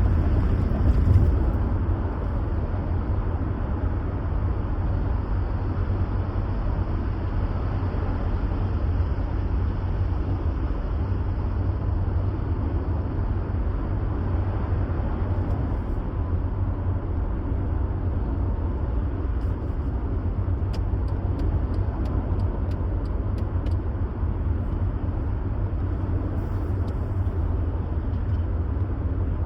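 Steady low rumble of a car being driven: road and engine noise heard while on the move, with no change in pace.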